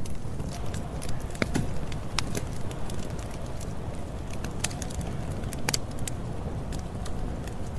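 Campfire burning, a steady low rumble with irregular sharp crackles and pops of burning wood.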